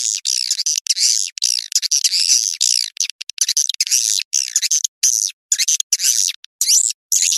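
Recorded swiftlet calls: dense, rapid high-pitched twittering chirps in quick runs broken by short gaps, with no low end. This is a swiftlet lure call of the kind played from swiftlet houses to attract the birds to nest.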